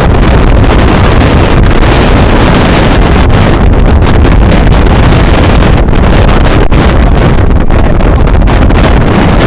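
Strong wind blasting across the microphone: a loud, constant rush of noise with heavy low rumble, near full volume throughout.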